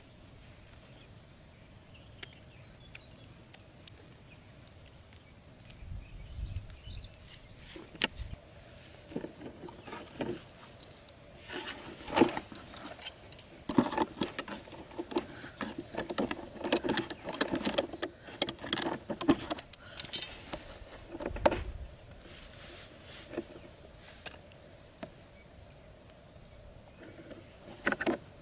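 Irregular clicks, taps and knocks, sparse at first, then coming thick and fast through the middle and thinning out again, over a faint steady hum.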